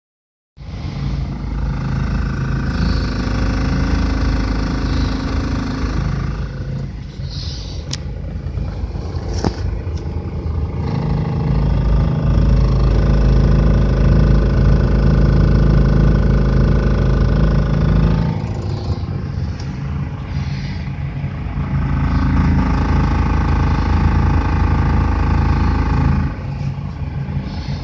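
2001 GMC Savana 3500 cutaway van idling while stationary, with a loud many-toned noise that rises over the engine three times, each lasting several seconds. The noise comes when the brake pedal is pressed or the steering wheel is turned to the left.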